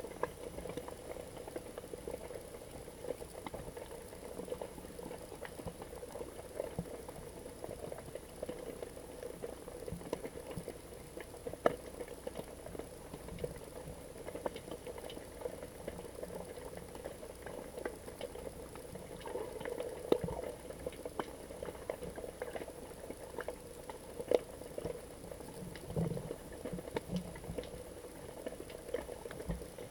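Underwater sound picked up by a GoPro in its waterproof housing: a steady muffled wash with scattered small clicks and crackles, and a few sharper ticks.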